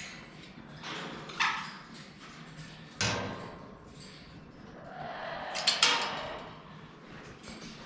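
Pet parrots calling and squawking in short separate outbursts, the loudest about five to six seconds in.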